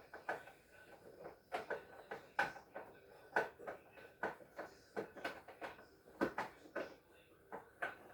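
Irregular light knocks and clicks, one or two a second, as refrigerator parts and panels are handled, over a faint steady tone.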